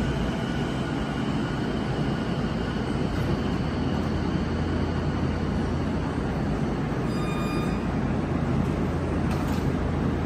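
Electric commuter train standing at a station platform, its equipment giving a steady hum and rumble. A short electronic beep sounds about seven seconds in.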